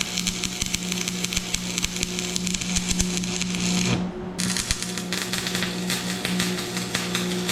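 Stick welding: the arc crackling and sputtering over a steady electrical hum. The crackle stops for a moment about four seconds in, then the arc strikes again and carries on.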